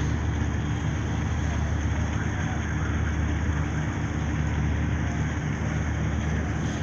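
An engine running steadily, giving a low, even drone over a constant wash of noise.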